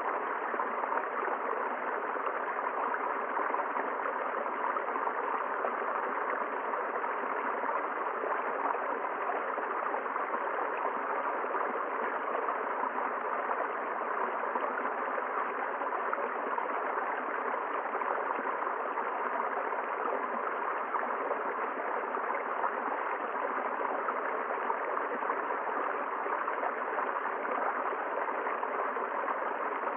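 River water flowing, a steady, unbroken sound with no separate events.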